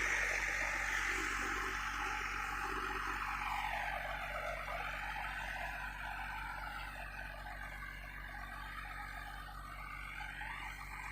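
IVECO 420 6x6 truck's diesel engine running steadily under load on a slow sand climb, with a constant low drone that slowly grows fainter.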